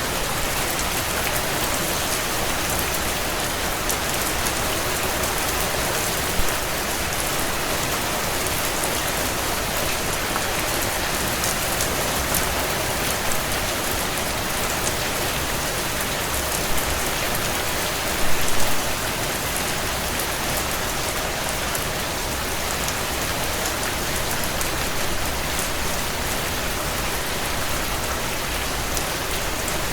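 Steady heavy rain on window panes, with a wood fire crackling: a few short louder pops, the biggest a brief cluster about two-thirds of the way in.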